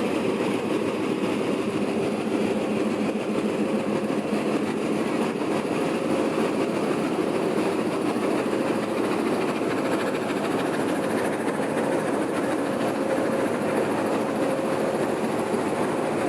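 A train running on its rails: steady, unbroken wheel-and-track noise with a faint hum underneath.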